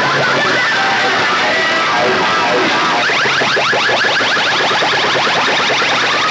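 DJ sound-box system blasting loud, distorted electronic playback, a wavering melody that gives way about three seconds in to a rapid run of rising siren-like sweeps, several a second.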